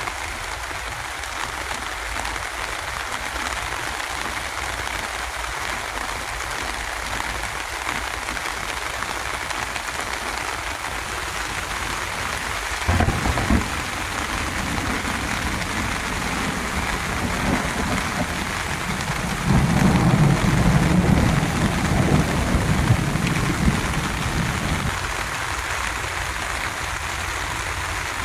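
Steady rain falling, an even hiss. A brief low knock about halfway through, and a louder low rumble for several seconds later on.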